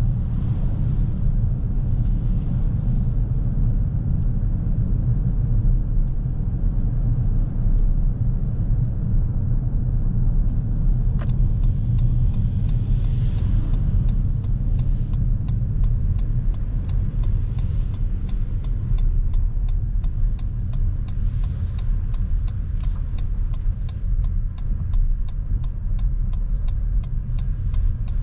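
A 2023 Lexus NX350h hybrid SUV driving, with steady low road and tyre rumble. From about a third of the way in there are scattered sharp ticks, which come more often toward the end.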